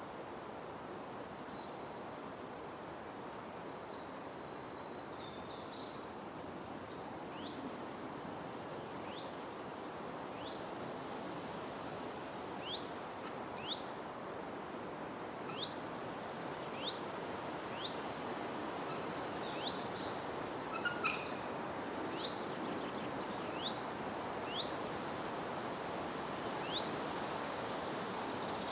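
Forest ambience: a steady hiss of background noise with birds calling over it. A short, sharp call repeats about once a second through most of the stretch, and higher chattering calls come in briefly near the start and again about two-thirds of the way through.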